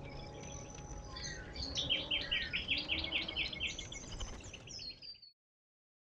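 Wild birds calling: a quick run of repeated high chirps, about four or five a second, through the middle, over a low outdoor background noise, cutting off suddenly a little after five seconds in.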